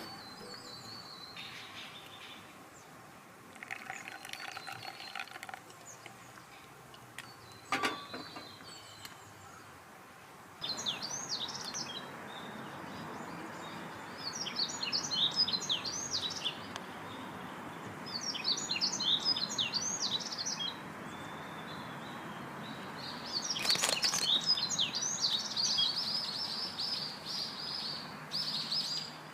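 Small songbirds singing in repeated bursts of rapid high chirps, each a second or two long, over a steady background hiss. There is a single sharp knock about eight seconds in.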